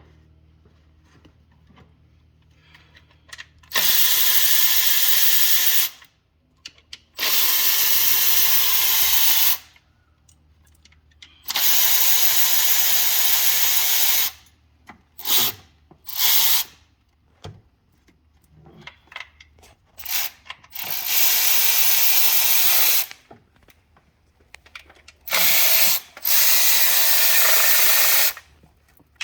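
Handheld power tool running in repeated bursts of two to three seconds with short pauses between, plus a few brief blips of a fraction of a second.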